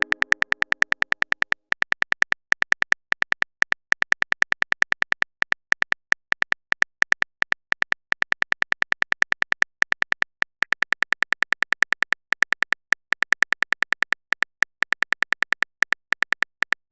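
Rapid, evenly spaced ticking sound effect, each tick with a short high beep, about seven a second in runs broken by brief pauses: a typing sound effect for text being typed out letter by letter.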